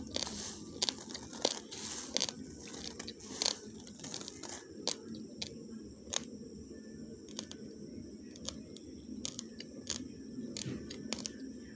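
Uncooked basmati rice grains crunching between the teeth as a mouthful is chewed: irregular sharp crunches, dense for the first few seconds, then sparser.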